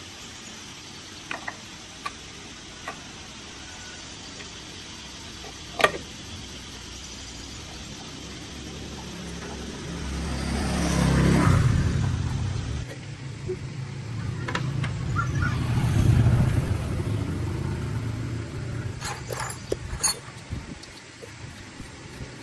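A few sharp metallic clicks and one loud knock, then a motor engine's sound swelling to a peak and fading twice.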